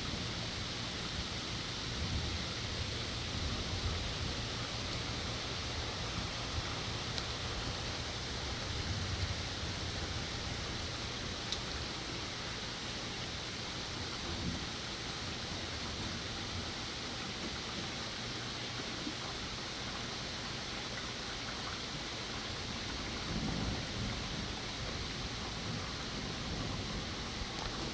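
Steady rain falling, with low rumbles swelling up now and then, strongest near the start and again near the end.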